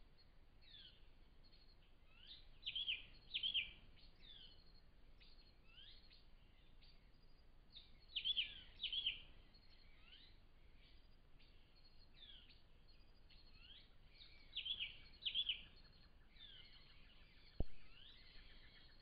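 Birds calling: pairs of short, high, downward-sweeping calls that come back about every six seconds, with fainter chirps in between. A single sharp click near the end.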